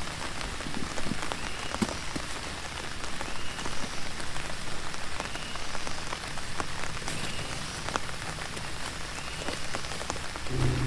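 Steady heavy rain falling, with individual drops ticking sharply on a nearby surface throughout.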